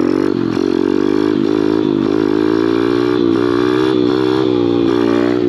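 Small Kawasaki pit bike's single-cylinder engine running under throttle during a wheelie attempt. Its pitch rises and dips again and again as the throttle is held and let off.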